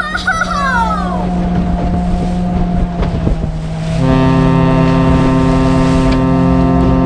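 Ship sound effect: a low steady drone, then a long, loud ship's horn blast that starts about four seconds in and holds steady. A falling whistle-like glide sounds at the very start.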